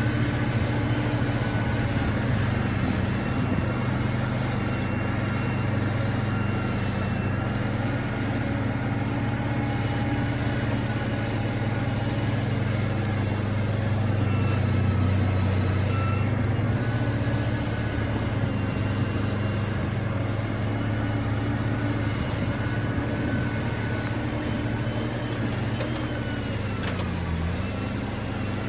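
Heavy diesel engine of construction machinery, such as a bulldozer or dump truck, running steadily under load. Near the end its pitch dips briefly and recovers.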